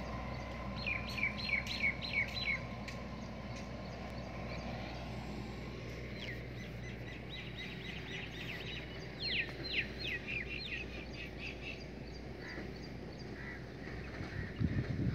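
A bird calling in quick runs of sharp descending chirps, three runs of about six to eight notes each, over a steady low hum of outdoor background noise.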